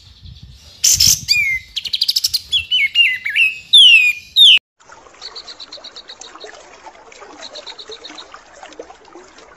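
Songbird calls: loud downward-sweeping whistles and quick trills for the first few seconds, then after a brief break a fainter stretch of rapid ticking chatter.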